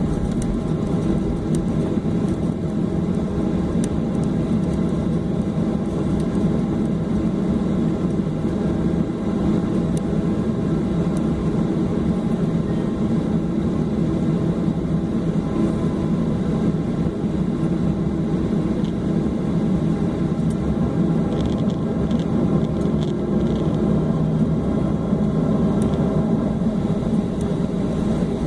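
Steady low hum and rush inside the passenger cabin of a Boeing 737-800 taxiing after landing, its CFM56-7B engines running at idle.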